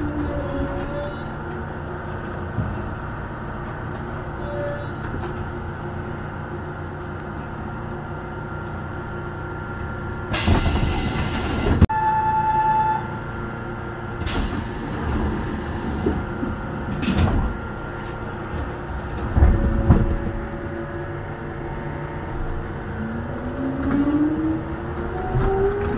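Yamaman Yukarigaoka Line rubber-tyred people-mover train running on its guideway, heard from inside the cab: a steady rumble with two bursts of hiss about ten and fourteen seconds in, a short beep just after the first, and a few knocks. Near the end a motor whine rises in pitch as the train picks up speed.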